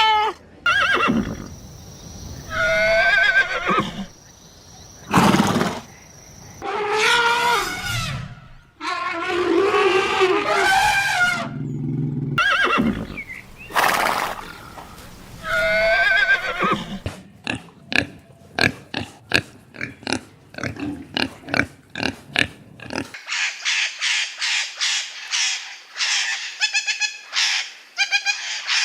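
A series of different farm animal calls cut one after another, some of them pitched cries with a wavering tone. A run of sharp clicks comes after the middle, and a fast, high pulsing call near the end.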